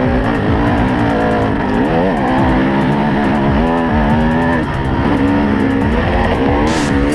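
Off-road motorcycle engine revving up and down repeatedly, its pitch rising and falling every second or so as the throttle works. Short rushes of noise come in near the end.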